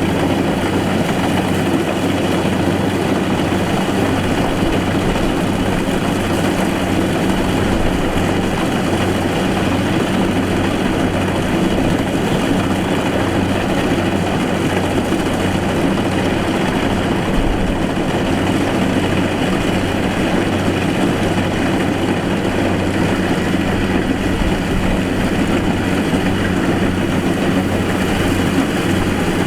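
Diesel engine of a rice combine harvester running steadily, with no change in speed.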